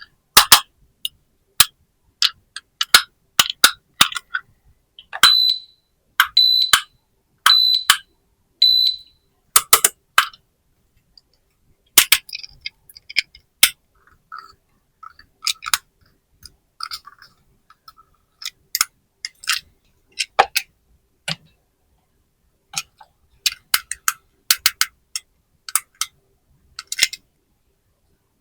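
Small plastic toy pieces clicking and tapping as they are handled, many separate sharp clicks throughout. About five seconds in, a toy gives four short high electronic beeps a little over a second apart.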